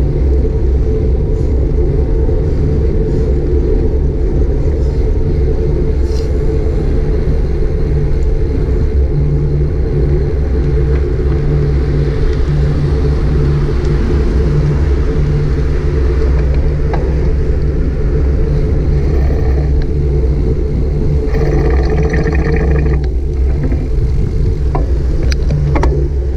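Steady low rumble of wind buffeting an action camera's microphone and road noise while riding a bicycle. A stretch of brighter hiss comes in briefly a little past three-quarters of the way through, and a few light clicks are scattered across it.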